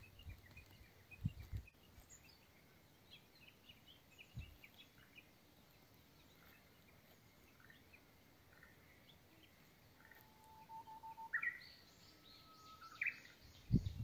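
Outdoor ambience with birds calling: scattered small chirps, then near the end a bird sings a held whistled note followed by higher, rising notes. A few low thumps sound against the microphone.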